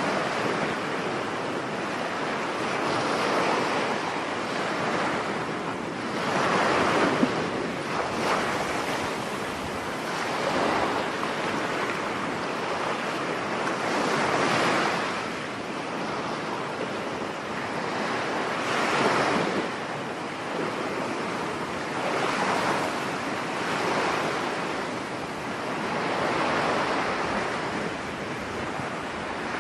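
Storm surf breaking on a beach, the waves swelling and washing in every three to four seconds, with wind blowing across the microphone.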